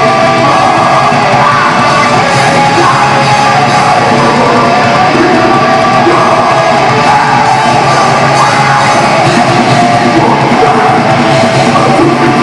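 Death metal band playing live in a hall, loud and dense: distorted guitars, bass and drums under a growled, yelled vocal.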